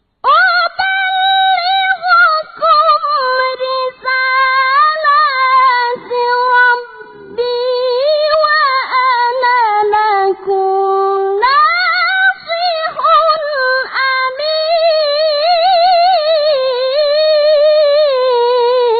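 A boy qari's high voice in melodic Quran recitation (tilawah), stretching the vowels into long ornamented phrases whose pitch waves and glides. There are short breaks for breath.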